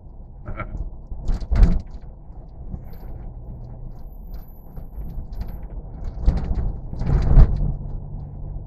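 Steady low rumble of a truck on the move heard from inside the cab, with several loud knocks and rattles, the loudest near the end.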